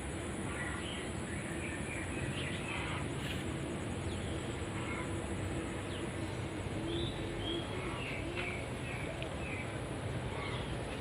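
Assorted birds chirping in short scattered calls, with a low drawn-out cooing call in the middle stretch, over a steady high-pitched whine.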